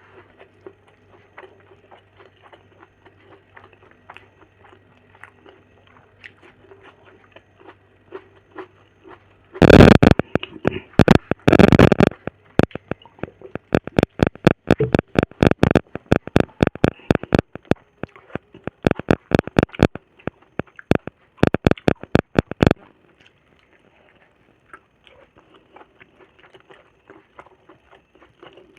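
Close-miked eating sounds of a person chewing a meal of chicken gravy and fried egg: wet smacks and clicks of the mouth. They are faint at first, then loud and rapid from about ten seconds in until near the end, where they go faint again.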